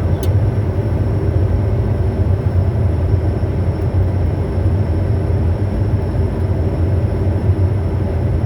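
Steady in-flight noise inside a Bombardier Challenger 350 on approach: a deep rumble of airflow and twin-turbofan engine hum, with a thin, faint high-pitched whine over it and a small click just after the start.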